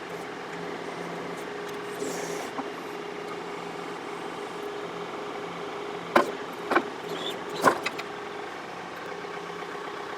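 John Deere 4052R compact tractor's diesel engine running steadily, with three sharp knocks a little past halfway.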